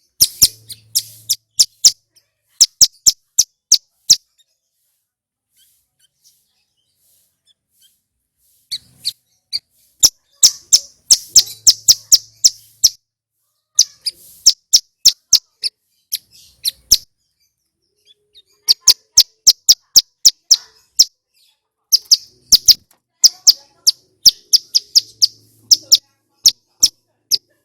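Male ciblek gunung (a mountain prinia) singing loud, rapid series of sharp, clicking high notes. They come in bursts of a few seconds each, with a pause of about four seconds after the first burst.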